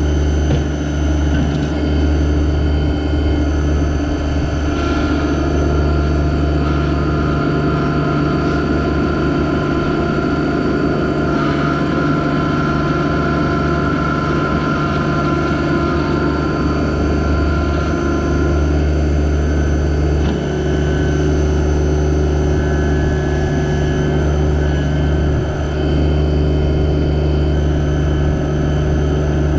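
Yanmar SA324 compact tractor's three-cylinder diesel engine running steadily, with a fainter steady whine above the engine hum.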